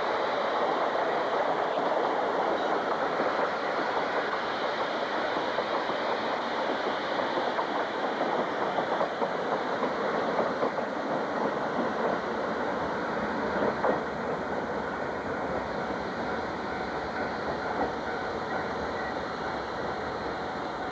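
Train running along the track, wheels clicking over the rails now and then, the sound slowly fading.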